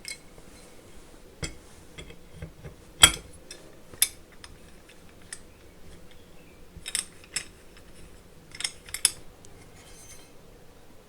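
Scattered clinks and clicks of a grinding wheel and its fittings being handled and fitted onto a Bosch GWS 750 angle grinder's spindle. The loudest clink comes about three seconds in, with a few more paired ones later.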